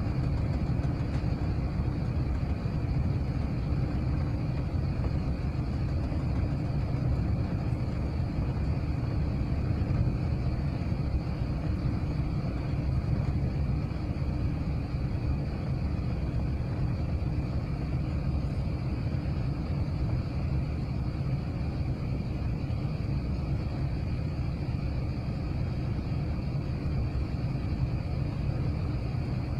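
Steady low rumble of an Airbus A380's engines and airflow heard from inside the passenger cabin, with faint steady high tones on top and no sudden changes.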